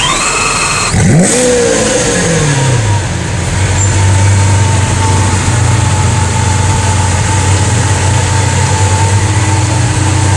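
Lamborghini Aventador LP700-4's V12 with a Capristo exhaust starting up: a brief starter whine, then the engine catches with a loud rev flare about a second in that falls away over a couple of seconds into a steady idle.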